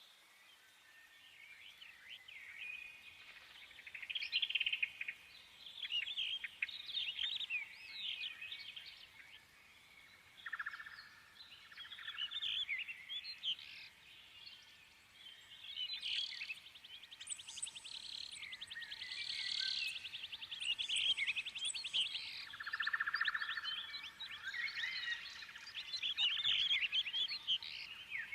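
Birds singing and chirping: a busy chorus of quick whistled notes, chirps and rapid trills that gets busier about halfway through.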